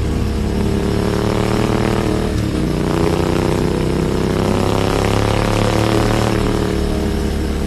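Motorcycle engine running under way, with a short break in its note a little over two seconds in, then revving up with a rising pitch before levelling off near the end.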